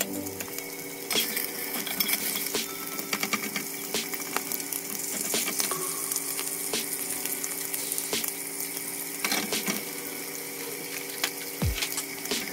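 Ham and eggs frying in butter in skillets, a steady sizzle full of crackling pops, with a metal utensil clinking and scraping against a pan, over a steady low hum.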